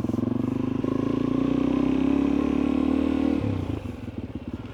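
Suzuki DR-Z400E single-cylinder four-stroke engine running at a light, steady throttle, easing off about three and a half seconds in to a lower, quieter note.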